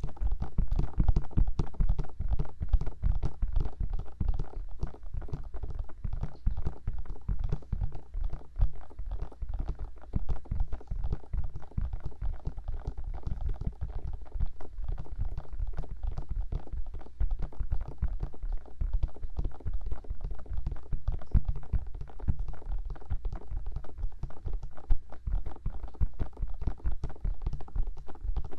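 Bare fingers tapping rapidly on the silicone ears of a 3Dio binaural microphone: a dense, continuous run of soft, muffled thumps.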